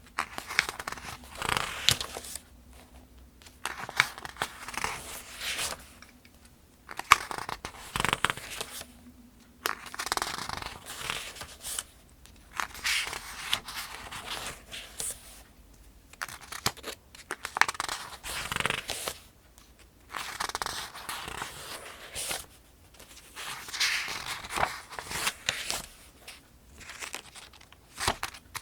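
Paper pages of a softcover almanac being turned one after another, a rustle and flap roughly every two seconds with short quiet gaps between.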